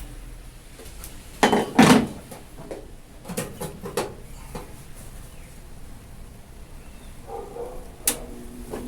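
A few knocks and clunks: a loud pair about one and a half seconds in, several lighter taps over the next few seconds, and one more sharp knock near the end.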